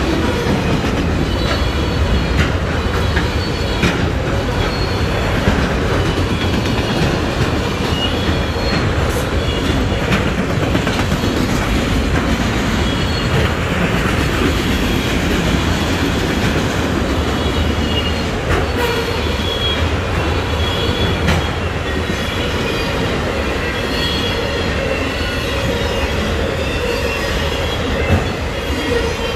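Freight train of autorack auto-carrier cars rolling past close by: a steady rumble and clatter of steel wheels on the rails, with short high-pitched wheel squeals now and then.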